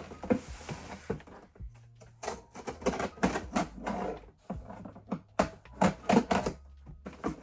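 A package being cut and pried open with a knife: irregular clicks, scrapes and rustles of packaging.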